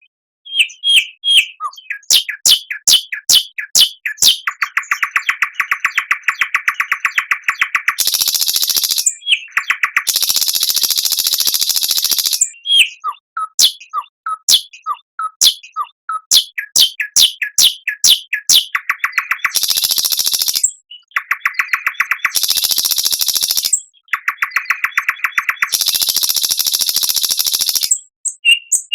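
Songbird song from a bird-song training recording ('masteran'): fast, sharp whistled notes and clicks alternate with rapid trills and several harsh, raspy bursts lasting one to two seconds each.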